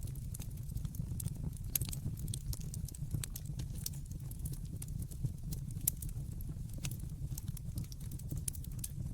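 Wood fire crackling in a fireplace: irregular sharp pops and clicks, several a second, over a steady low rumble.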